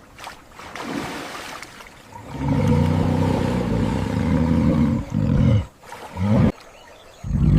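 A large animal roaring: several low, drawn-out calls with short breaks, the longest lasting nearly three seconds in the middle, followed by shorter calls that fall in pitch.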